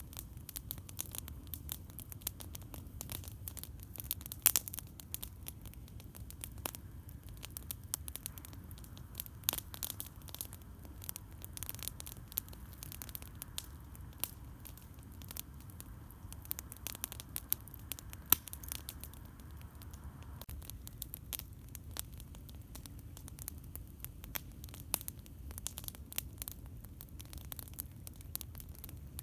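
Campfire crackling: irregular sharp snaps and pops of burning wood, a few louder than the rest, over a steady low rumble.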